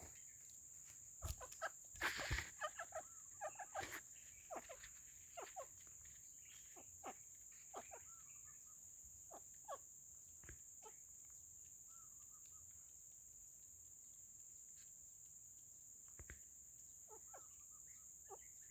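Junglefowl hen clucking: a quick run of short, sharp clucks in the first few seconds, then single clucks spaced out and a few more near the end, over a steady high-pitched hum of insects.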